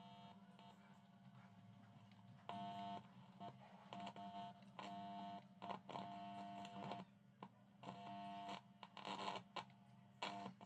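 Faint steady-pitched electronic tones that start and stop about half a dozen times, over a low steady hum.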